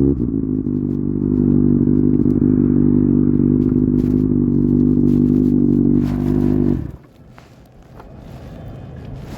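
Kawasaki ZX-6R inline-four with an SC-Project exhaust running hard at a steady pitch, dipping briefly and then cutting off suddenly about seven seconds in, leaving only quieter wind noise.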